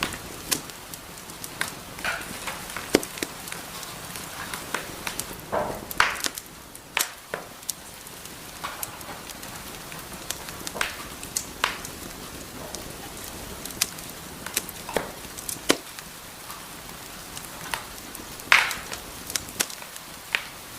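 Wood fire burning in a fireplace, crackling with irregular sharp pops and snaps over a steady hiss.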